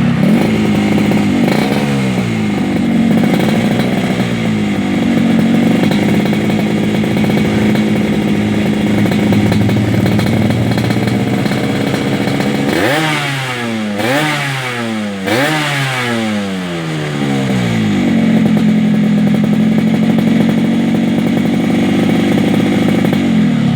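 Two-stroke Yamaha RX motorcycle fitted with an aftermarket expansion-chamber exhaust, idling with a couple of light throttle blips early on. About halfway through it is revved sharply four times in quick succession, each rev climbing and falling, before it settles back to a steady idle.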